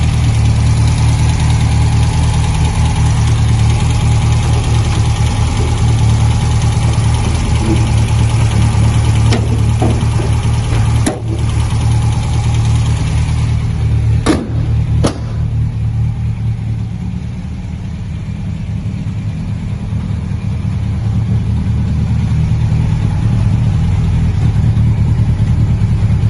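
MGA coupe's four-cylinder engine idling while it warms up from a cold start, with a few sharp clicks about halfway through.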